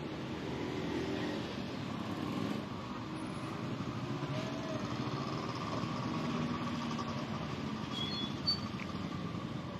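Street traffic: a steady hum of passing vehicle engines, with a faint click near the end.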